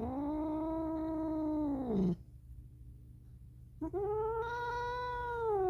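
Calico cat giving two long, drawn-out yowls of annoyance at being held and snuggled: the first lasts about two seconds, and the second starts near the middle and sinks slowly in pitch.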